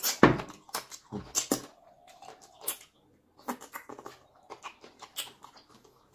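Close-up eating sounds of fufu with okra soup: irregular wet smacking and chewing clicks from the mouth, with a brief faint hum in the middle.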